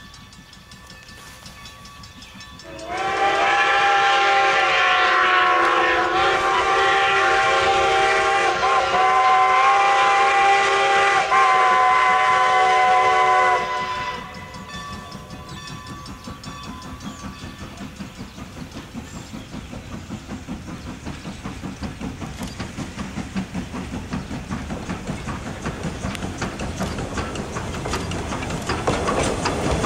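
A steam locomotive whistle, the 2-10-0 Decapod's, sounds one long chime-like blast of several notes at once for about eleven seconds. After it stops, the train's rhythmic running sound grows steadily louder as it approaches.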